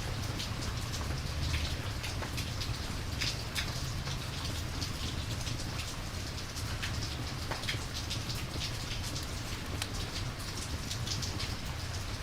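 Steady rain, with many sharp drop ticks landing on a surface over a low, even rumble.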